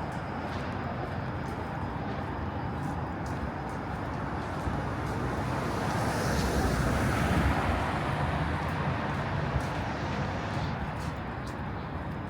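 Steady city traffic noise, with a vehicle passing that swells to its loudest a little past the middle and then fades.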